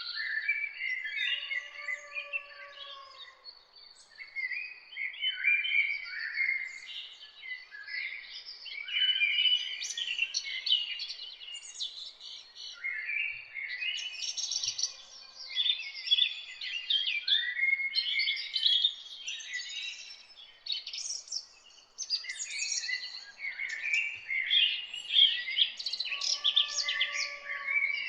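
Several birds singing and chirping together in a dense, continuous chorus of quick high chirps and trills. A lower, softer call comes about two seconds in and again near the end.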